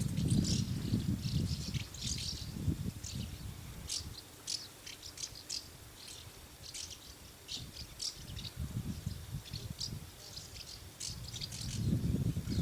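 Swallows twittering: many short, quick high chirps throughout, with a low rumble underneath that is strongest at the start and again near the end.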